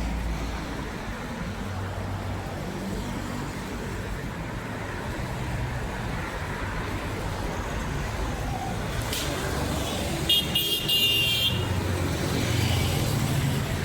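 A motor vehicle running amid traffic noise, with a low steady hum; a brief high-pitched tone sounds about ten seconds in.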